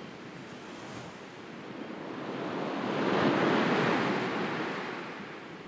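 Sea waves washing in on a shore: one slow swell that builds to a peak about halfway through and then ebbs away.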